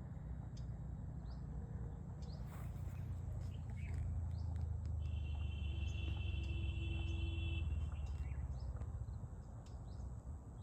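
Birds chirping in short calls over a steady low rumble, with one held whistling note lasting a couple of seconds past the middle.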